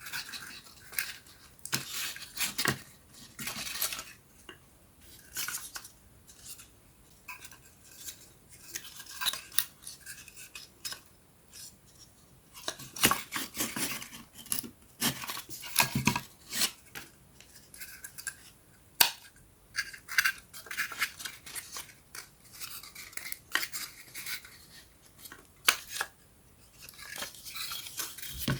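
Thin wooden puzzle pieces being handled and fitted together: irregular light clicks, taps and scraping of wood on wood, with a sharper click now and then.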